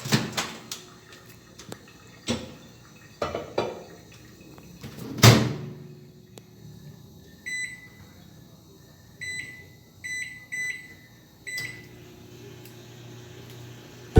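A microwave oven being loaded and started: clicks and knocks, a loud bang of the door shutting about five seconds in, then a string of short keypad beeps as the time is set, over a low steady hum of the oven.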